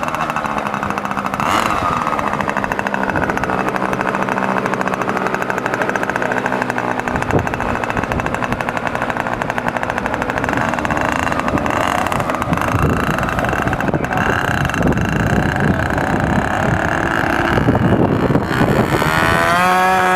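Radio-controlled scale model warplane's engine running at high revs, a steady buzzing whine whose pitch drifts as the plane flies. Gusty wind rumbles on the microphone from about seven seconds in, and near the end the engine's pitch sweeps sharply as the plane passes close.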